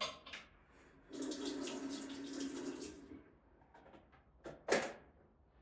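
Water tap running into a sink for about two seconds, then turned off. A short, sharp clack follows a little later.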